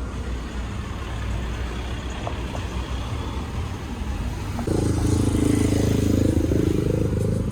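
Road traffic: a motor vehicle's engine running close by over a steady road rumble, abruptly louder with a low hum about two-thirds of the way in.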